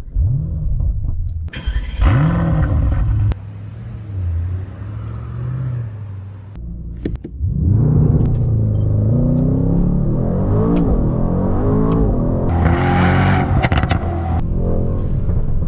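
Brabus Rocket 900's 4.5-litre twin-turbo V8 starting with a rising flare and a second rev, settling to a rumbling idle, then revved repeatedly in rising and falling blips from about eight seconds in.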